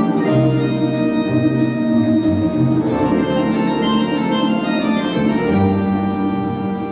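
Instrumental introduction to a song: sustained organ-like keyboard chords over a slowly moving bass line.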